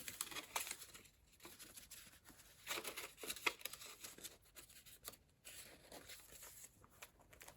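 Faint rustling and crinkling of paper as journal pages and ephemera are handled, with a few short, louder rustles about three seconds in.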